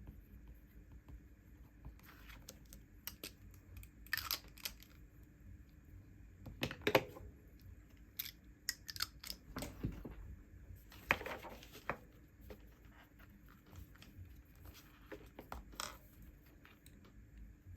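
Paper and stationery being handled: scattered taps and clicks with short crinkling, tearing rustles, the loudest about a third and two-thirds of the way through.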